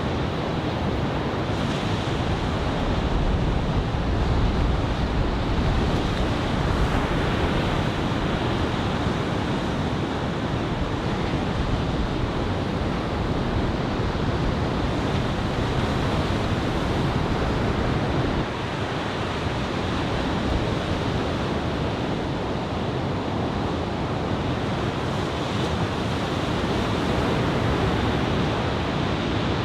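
Ocean surf of a typhoon swell breaking steadily on the beach, with wind buffeting the microphone.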